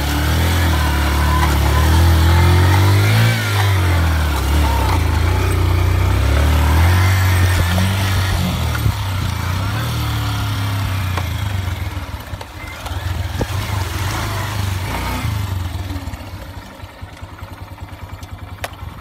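Off-road vehicle engine running under load, its pitch rising and falling with the throttle, then dropping to a quieter, fast even putter for the last few seconds.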